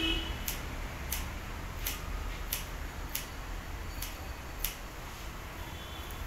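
Hair-cutting scissors snipping hair, about seven crisp snips at an even pace of roughly one every two-thirds of a second, stopping about three-quarters of the way through.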